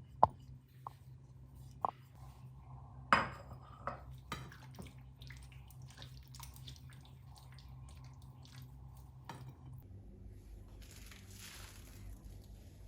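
Kitchen utensils clinking and knocking against cookware: a handful of sharp knocks in the first few seconds, the loudest about three seconds in, then lighter ticks. A low steady hum underneath stops about ten seconds in.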